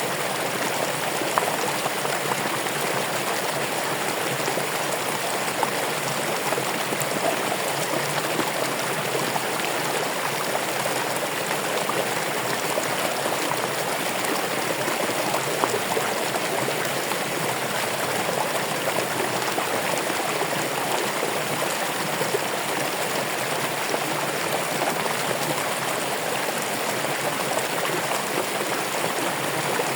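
Running water: a stream flowing steadily over stones, a constant rushing babble with small splashes.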